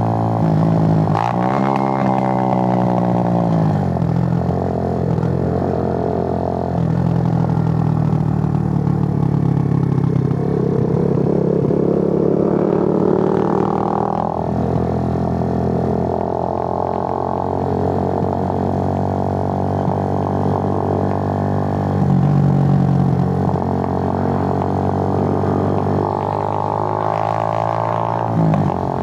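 Suzuki GN125's single-cylinder four-stroke engine running on the move, its note rising and falling with the throttle. It drops sharply about a second in, sinks further over the next few seconds, and drops again near the end, as at gear changes or easing off.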